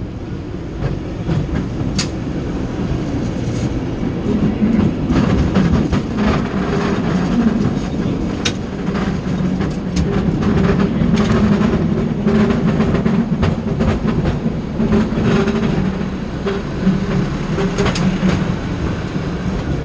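San Francisco tram running along its rails: a steady rumble that grows louder about four seconds in, with a recurring hum and irregular clicks and clacks from the wheels and track.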